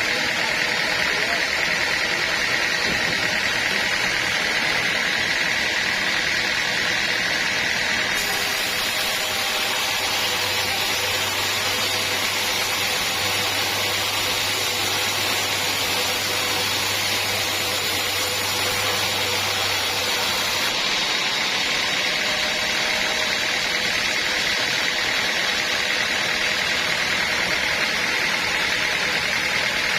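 Sawmill machinery running steadily, a motor and saw with a constant hiss. From about 8 to 21 seconds in, a low hum and a higher hiss are added, then drop away.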